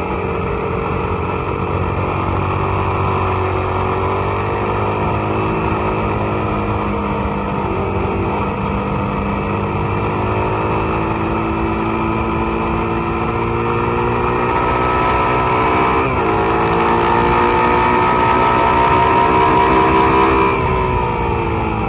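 Suzuki SV650's V-twin engine under racing load on track, its pitch climbing steadily through the revs, with a brief break at an upshift about three quarters of the way through, then climbing again until the throttle shuts near the end and the pitch drops. Wind hiss on the microphone builds over the last third at top speed and stops as the bike slows.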